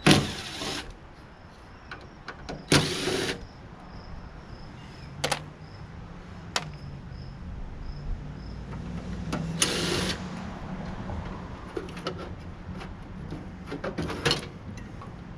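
A cordless drill/driver whirring in about five short bursts, backing out the screws that hold a cover on a tankless water heater, with a few sharp clicks of metal parts between bursts.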